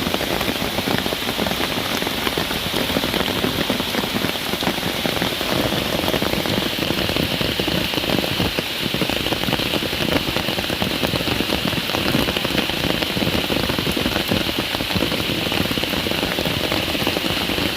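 Steady heavy rain falling, a dense even hiss of drops striking surfaces that keeps up without letting off.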